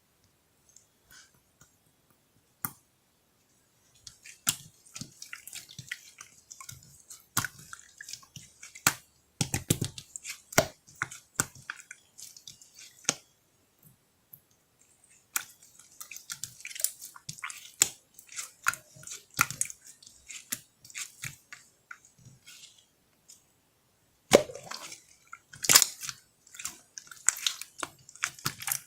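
Slime being squeezed and kneaded by hand, making irregular wet clicks and small pops. It starts about four seconds in, pauses briefly twice, and the loudest clicks come near the end.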